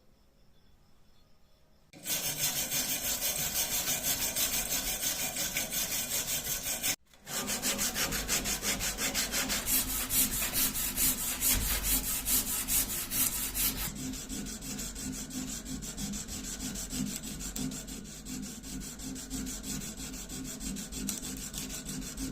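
A hand tool scraping back and forth over metal in rapid, even strokes, as in filing, sawing or rubbing down a rusty part. The strokes start about two seconds in, break off for an instant about a third of the way through, and carry on a little quieter in the second half.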